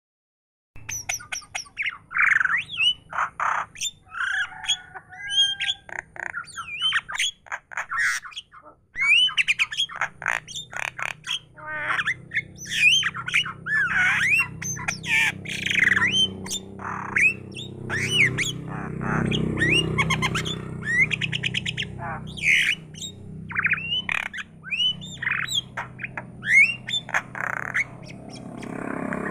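A starling (jalak) chattering non-stop: a varied run of sharp clicks, harsh squawks and gliding whistled notes, with a short pause about eight seconds in.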